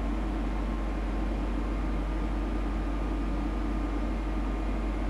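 Steady low hum with an even hiss: the recording's background noise, unchanging throughout, with no other sound.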